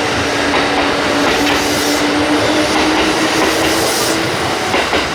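Kintetsu electric train running along the platform at close range: loud wheel-on-rail noise with a steady hum that fades out about four seconds in.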